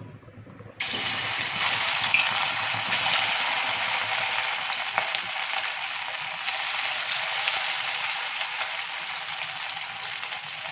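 Marinated boneless chicken pieces frying in hot oil in a kadai: a steady, dense sizzle that starts suddenly about a second in as the chicken goes into the oil.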